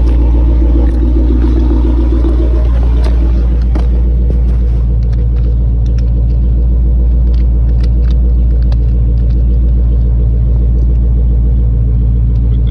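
Steady low rumble of a running motor, with scattered light clicks.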